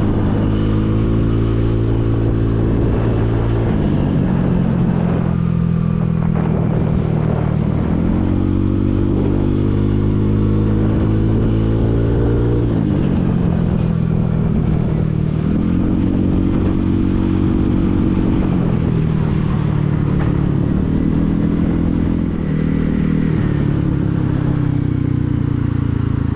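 Motorcycle engine running under way, its note climbing with the throttle and then dropping suddenly several times at gear changes or when the throttle is shut.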